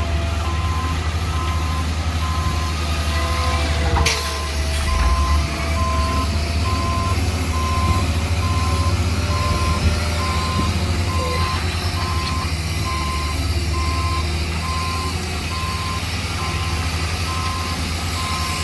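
A heavy construction vehicle's reversing alarm beeping steadily about once a second over the low rumble of its running engine. There is a single sharp knock about four seconds in.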